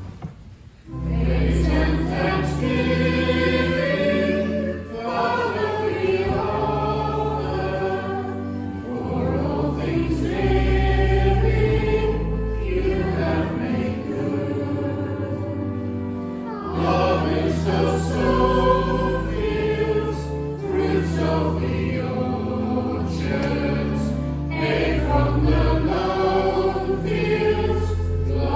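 Church choir and congregation singing a hymn to church organ accompaniment. The singing and organ come in together about a second in, after a brief pause.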